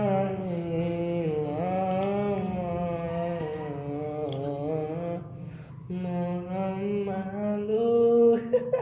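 A child singing sholawat solo, in long held notes with wavering melismatic ornaments and a brief breath about five seconds in.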